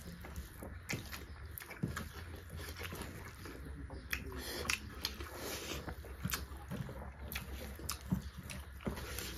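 Two people chewing beef curry and rice eaten by hand, with mouth smacks heard as a scatter of short, sharp clicks.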